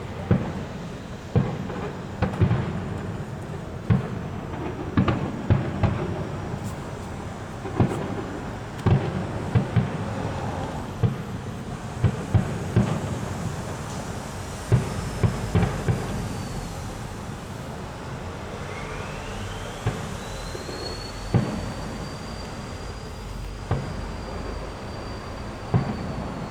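Fireworks display: shells bursting with loud booms, often several a second, over a continuous rumble. About two-thirds of the way in, a whistling firework rises in pitch and then holds a long high whistle until near the end.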